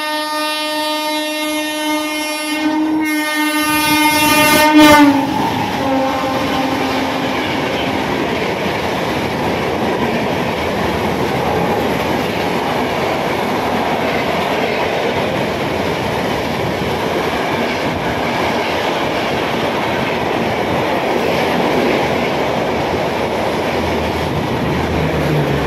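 A passenger train passing through a station at speed. The locomotive's horn sounds a long blast, breaks off briefly about three seconds in, then sounds again and drops in pitch as the locomotive goes by at about five seconds, the loudest moment. After that the coaches run past with a steady rushing noise of wheels on the rails.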